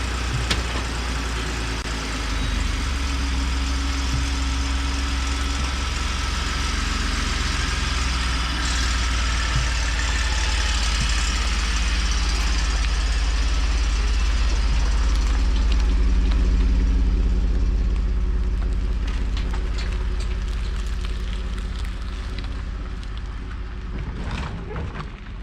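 A vehicle driving at speed on the road: a steady deep rumble with an even hiss of tyre and wind noise, swelling slightly a little past the middle.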